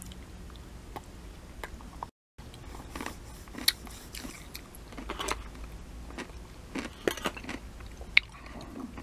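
Close-up biting and chewing of a crunchy dill pickle spear: scattered wet crunches and mouth noises, with two sharp louder clicks, one near the middle and one near the end. The sound cuts out completely for a moment about two seconds in.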